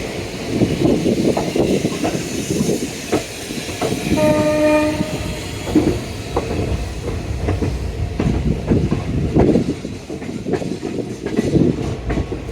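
Passenger train running, its wheels clattering and knocking over the rail joints. About four seconds in, a train horn sounds once for about a second.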